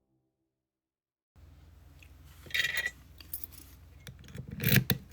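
Dead silence for about a second, then small metal clinks and scrapes as an Abus C83 padlock and its parts are handled on the bench, with a scraping stroke a little past halfway and a louder metal clatter near the end.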